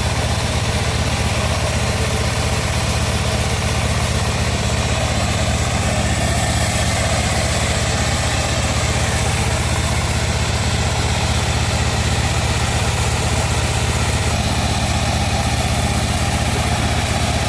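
Homemade bandsaw mill running steadily: an even, low machine drone that holds unchanged throughout.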